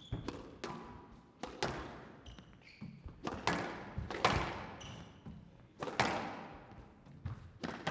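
A squash rally: the ball cracks off rackets and the court walls in sharp impacts every half second to a second and a half, each with a short echo in the glass court. A few short high squeaks come in near the middle.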